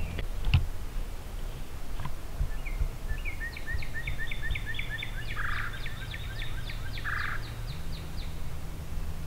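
A bird calling a fast series of short, high repeated notes, about four a second, for some five seconds from a couple of seconds in. A steady low hum runs underneath, and a single knock comes about half a second in.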